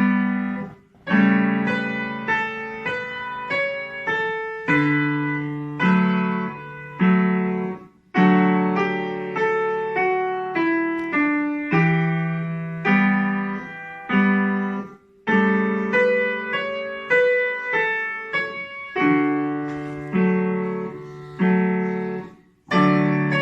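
Piano playing a slow, lyrical melody over chords, in phrases broken by short pauses about every seven seconds.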